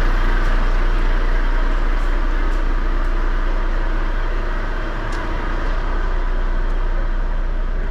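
Semi-truck's diesel engine running steadily at low revs while the lorry reverses slowly toward a loading dock.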